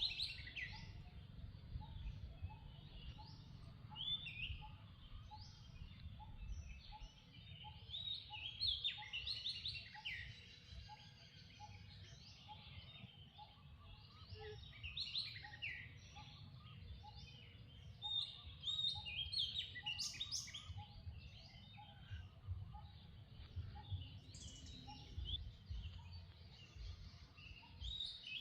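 Outdoor ambience of birds chirping and singing in short scattered phrases, over a faint string of short notes repeating about three times every two seconds and a low rumble.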